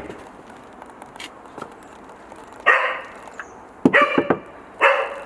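A dog barking a few times, the first bark about halfway in.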